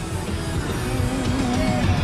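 A song playing on the car's stereo.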